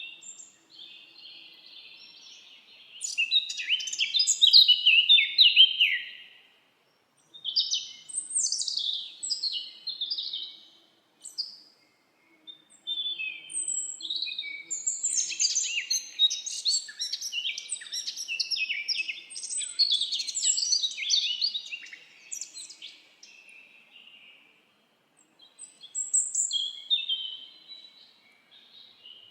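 Several songbirds singing in a forest: bursts of quick, high chirps and trills, with short pauses between them.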